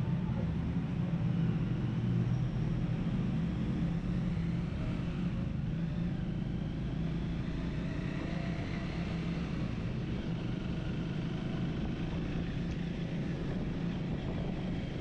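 Triumph Speed 400's single-cylinder engine running steadily at a constant cruising speed while riding, with a steady haze of road and wind noise.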